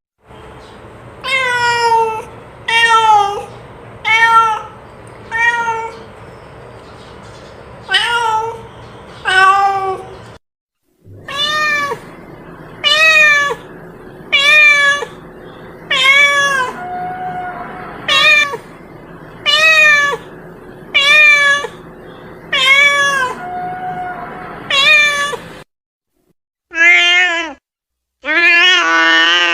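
A domestic cat meowing over and over, short calls about one a second over a faint steady background noise. Near the end, after a short break, come a few longer, louder meows.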